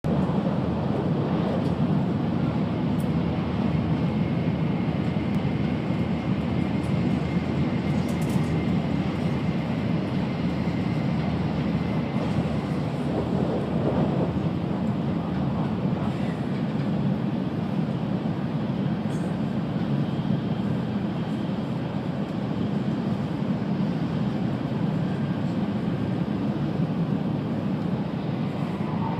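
A Tokaido Shinkansen train running at speed through a station without stopping, heard from inside the passenger cabin. It makes a steady, even low rumble with no breaks.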